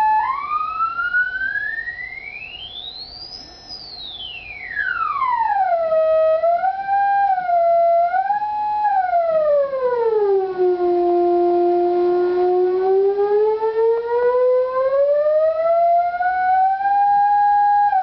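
Function-generator tone played through the loudspeaker of a propane-fed Rubens tube, gliding in pitch like a siren. It climbs to a high whistle about three seconds in, falls back, wavers up and down twice, drops to a low hum held for a couple of seconds, then slowly rises again and dips near the end.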